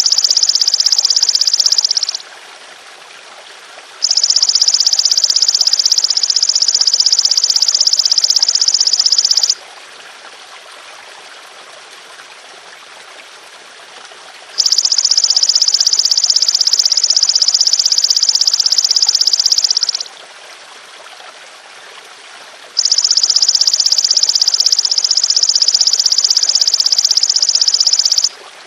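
Golden grasshopper (belalang emas) calling in long, loud, high buzzing trills of several seconds each, four bouts with short pauses between them, over a steady trickle of water.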